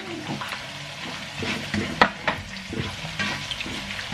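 Onions frying in hot oil in a non-stick wok, sizzling while a spatula stirs and scrapes the pan, with two sharp knocks of the spatula on the pan about two seconds in.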